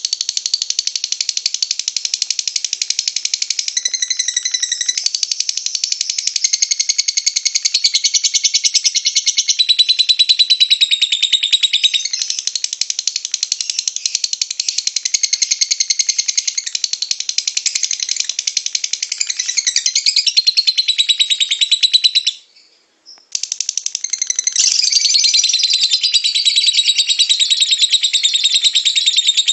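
Lovebird giving its long, fast, high-pitched chattering trill (ngekek), with a pause of about a second roughly three-quarters of the way through before it resumes.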